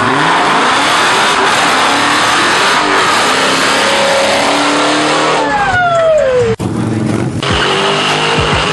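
A car's engine revving hard with its tires spinning and squealing, as in a burnout, ending in a falling whine. The sound cuts off abruptly about six and a half seconds in, then vehicle noise resumes.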